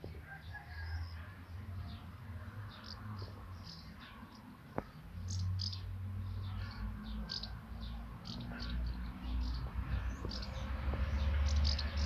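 Small birds chirping, many short high calls scattered throughout, over a low uneven rumble that grows louder near the end. One sharp click a little before the middle.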